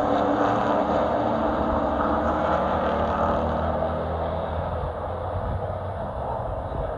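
Race truck engine running steadily at speed, easing off slightly in the second half.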